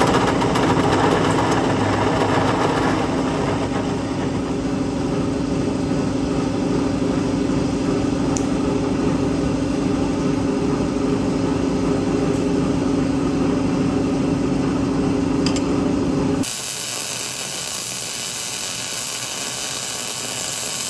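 Electric power tool running steadily with a strong hum. About sixteen seconds in it cuts off abruptly to a different, quieter, hissing machine sound without the hum.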